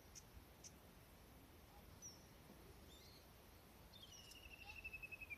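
Faint wild birdsong: a few short, high chirps, then from about four seconds in a fast trill of repeated notes that slowly falls in pitch.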